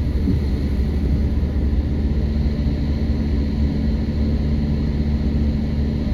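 Steady low rumble of a car's engine and drivetrain heard from inside the cabin, with a faint even hum and no distinct events.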